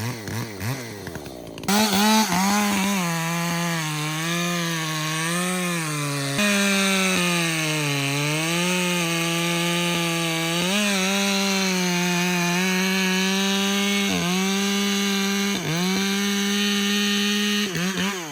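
Ported Echo CS-620PW 60cc two-stroke chainsaw revved to full throttle about two seconds in and held there while cutting wood. The pitch sags and recovers several times as the chain loads up in the cut. The throttle is released right at the end.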